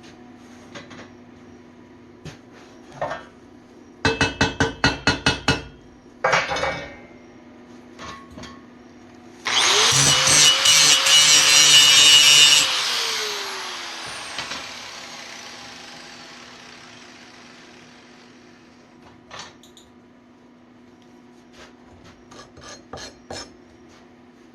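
A power tool, most likely an angle grinder, runs loudly on the steel for about three seconds and then spins down, its tone falling as it winds to a stop. Before it there is a quick run of about eight sharp knocks and one more knock, and a steady low hum underlies everything.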